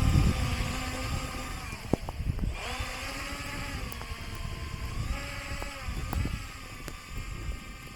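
Twin electric motors and propellers of a radio-controlled model plane whining as it taxis, the pitch dipping and rising a few times with the throttle. Wind buffets the microphone underneath.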